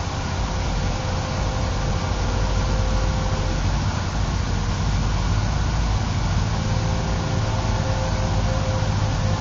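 Steady wind rumble and hiss on the microphone, with a faint whine of small electric motors and propellers from a twin-motor RC model airplane in flight.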